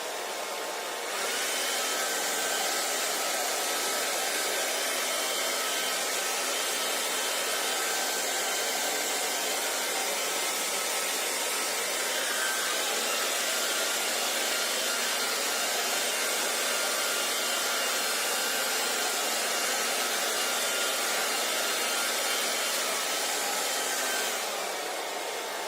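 Hand-held hair dryer blowing steadily with a faint motor whine. It gets louder about a second in and drops back near the end.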